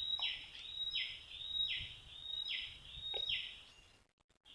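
Wild animal calling outdoors over and over, about once every three quarters of a second: each call is a high held note that falls into a rasping downward sweep, with short higher notes between calls. The calls break off briefly near the end.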